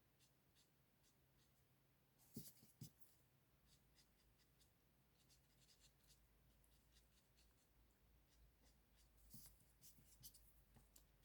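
Faint scratchy strokes of a blender pen rubbing colour on stamped cardstock, with two soft knocks a couple of seconds in.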